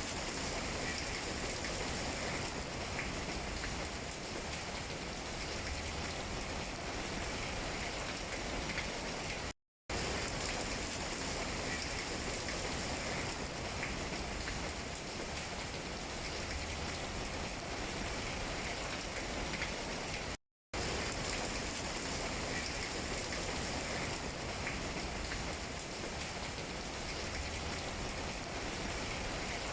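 Steady rain falling on tree leaves: an even hiss with faint scattered drop taps. The sound drops out completely for a split second twice, about ten seconds apart.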